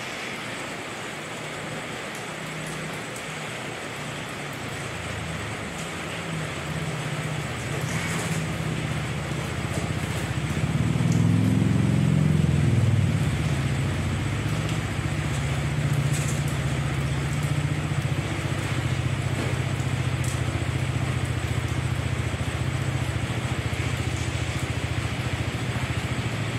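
Steady rain falling, with a low droning rumble underneath that swells about halfway through and then holds.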